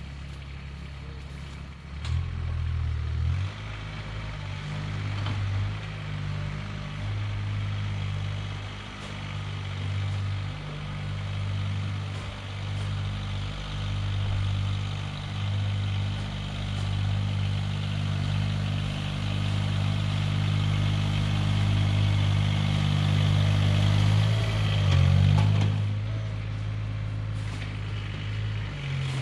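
A snow-clearing machine's engine running, throttled up sharply about two seconds in, then holding a steady note that wavers with the load.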